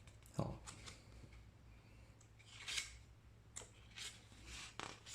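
Faint rustling of a small paper catalogue being handled and its pages turned: a few short, soft swishes, the clearest near the middle.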